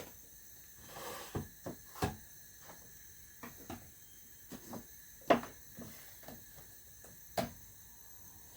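Scattered light clicks and knocks of kitchen items being handled, at irregular intervals, the loudest a little past halfway.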